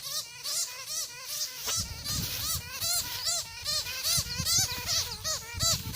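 A small animal caught in a bird net gives rapid, repeated squeaky calls that rise and fall, about three or four a second. Low thumps of handling run underneath from about two seconds in.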